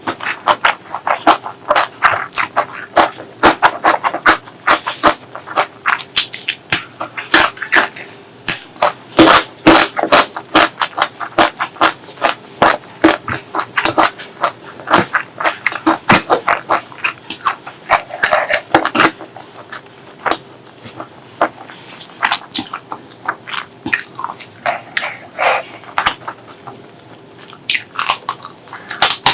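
Close-miked eating sounds: chewing and biting into food, heard as rapid, wet mouth clicks. They thin out for several seconds past the middle, then pick up again near the end.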